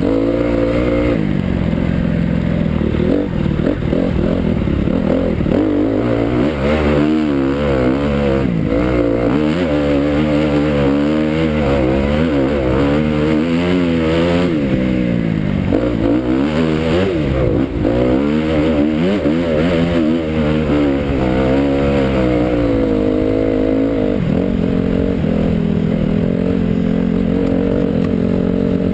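Motocross bike engine being ridden hard, revving up and down over and over as the throttle is opened and closed, its pitch rising and falling every second or two. The pitch holds steadier near the start and again in the last few seconds.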